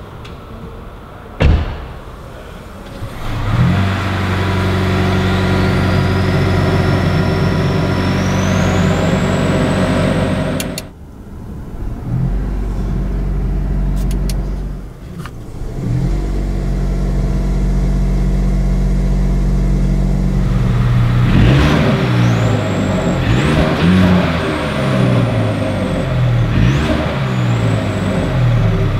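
A single sharp thud about a second in, then a 2022 Mercedes C300's 2.0-litre turbocharged four-cylinder petrol engine starts with a short flare of revs and settles into a steady idle. In the last third it is revved repeatedly, its pitch rising and falling with each blip.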